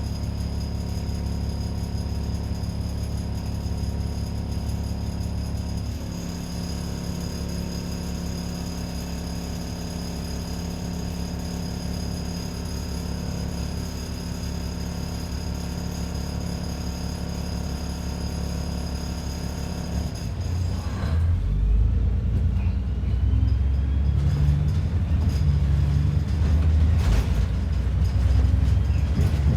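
Double-decker bus diesel engine idling steadily under a thin high whine. About 21 s in, the whine stops and the engine rumble grows louder and uneven, as when the bus moves off.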